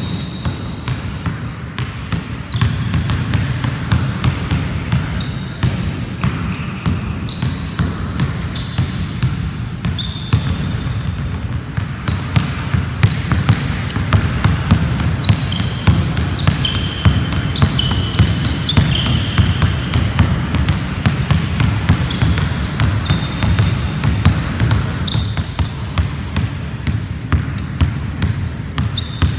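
A basketball dribbled rapidly and repeatedly on a court, with short high-pitched squeaks scattered throughout.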